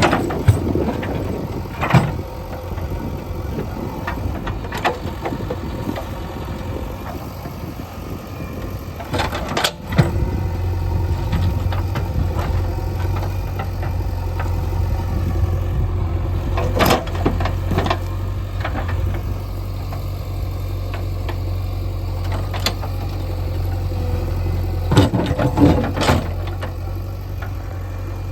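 JCB 3DX backhoe loader's diesel engine running steadily under work, a little louder from about ten seconds in, with several sharp knocks and clanks of the bucket and machine working stones.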